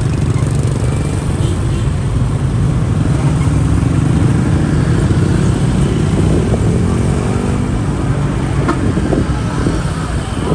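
Dense motorbike traffic, heard from a moving motorbike: many small engines running close by in a steady low rumble, with an engine's pitch rising and falling about halfway through.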